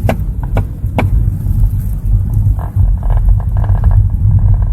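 Low road-and-engine rumble inside a moving Nissan NV350 Caravan van, with sharp ticks and creaks about three times in the first second and a few more later. The owner traces this noise to a badly fitted front pillar trim cover on the passenger side.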